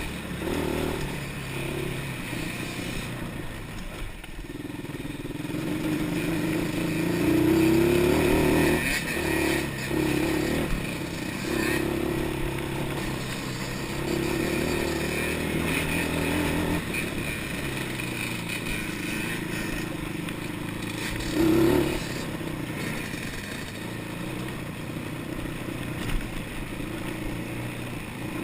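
Quad bike engine running while it is ridden off-road, its pitch rising and falling as the throttle opens and closes, with louder revs about a third of the way in and again about three-quarters through.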